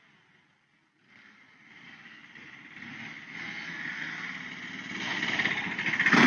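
Motorcycle engine running and growing steadily louder over several seconds, with a sudden sharp bang, the loudest sound, near the end.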